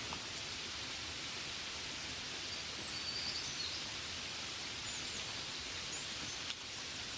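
Steady gentle rain, an even soft hiss. A few brief high chirps come through around the middle, and there is a short click near the end.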